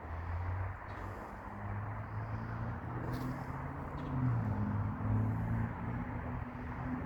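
Road traffic: a low vehicle engine hum that dips in pitch about four seconds in, over a steady rush.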